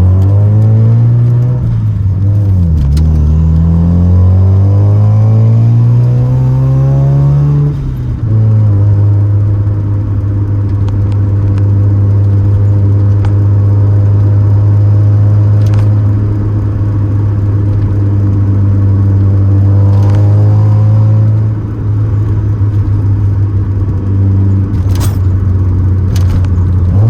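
Turbocharged 13B rotary engine of a 1988 Mazda RX-7 under acceleration: the pitch climbs, drops briefly for a gear change, climbs again, falls at a second shift about eight seconds in, then holds steady at cruise, with a few sharp clicks in the second half.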